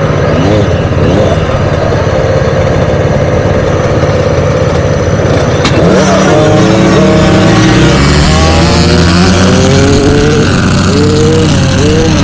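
A pack of motocross bikes held at revs behind the starting gate, then a sharp clack a little before halfway, after which the engines rise together in repeated stepped climbs as the bikes launch and shift up through the gears.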